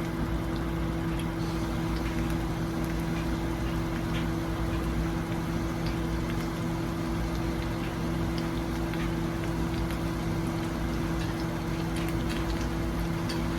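Food sizzling in a pan: a steady hiss with scattered small pops, over a steady low hum.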